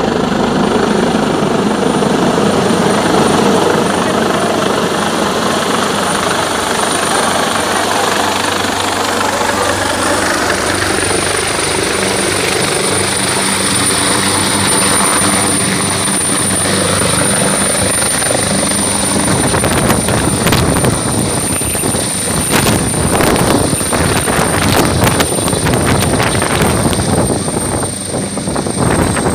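Helicopter running close by: the steady noise of its rotor and engines, with a thin high turbine whine held throughout. From about two-thirds of the way in, the sound turns rough and gusty.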